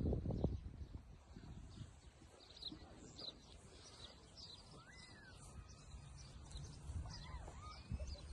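Small birds calling: repeated short high chirps, with a rising-and-falling whistled note about five seconds in and another about seven seconds in. A low rumble, loudest at the start, runs underneath.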